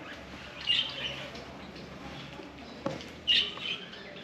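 Birds chirping: two short bursts of high chirps, one about a second in and another about three seconds in, with a single sharp click just before the second.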